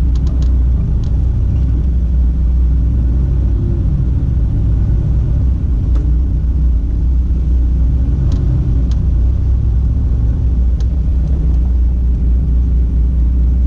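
Turbocharged Toyota MR2 (SW20) with a 3S-GTE four-cylinder and dual exhaust, running steadily at low speed, heard from inside the open-roofed cabin as an even, deep drone. A few faint ticks come and go.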